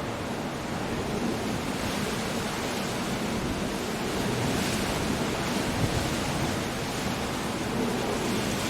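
Stormy sea surf washing in with wind: a dense, steady wash of noise that swells a little about halfway through.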